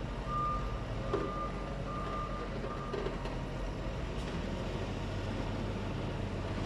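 Reversing alarm of a heavy vehicle beeping in long, evenly spaced pulses, then stopping about three seconds in, over the low drone of its diesel engine.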